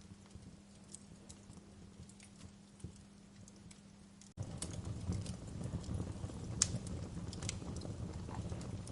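Recorded fireplace crackling: scattered small pops and snaps from burning wood. About halfway through, the sound cuts abruptly to a louder stretch with a low rumble of the fire under more frequent pops.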